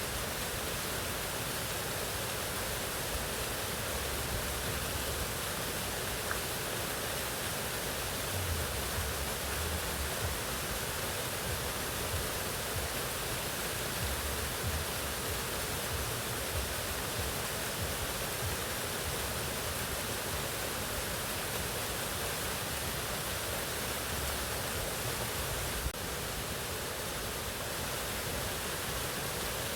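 Mountain waterfall: a steady, even rush of falling water with a low rumble underneath. A brief click and a slight drop in level come about 26 seconds in.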